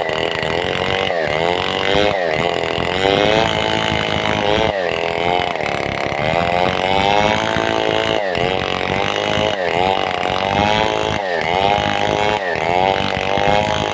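Stihl 070-type (New West 707) two-stroke chainsaw running loud, its pitch repeatedly sagging and climbing back as the engine labours and recovers, typical of ripping a log into boards.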